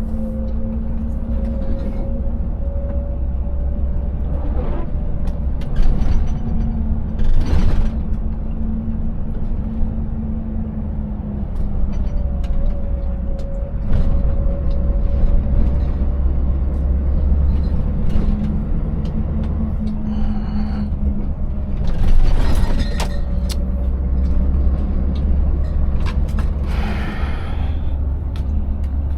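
Scania 590S V8 truck engine running steadily with a heavy low rumble while under way. Several knocks and rattles come through as the empty rig goes over a broken road surface, most clearly about 6 and 7 seconds in, about 22 seconds in, and near the end.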